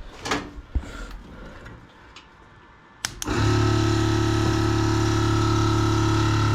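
A few small handling clicks, then about three seconds in an electric dual-head air-suspension compressor switches on with a click and runs with a steady, even hum, filling the air bags.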